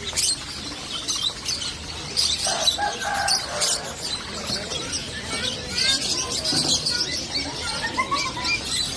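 Many small caged birds chirping and twittering at once: short high calls overlapping, with scattered clicks among them.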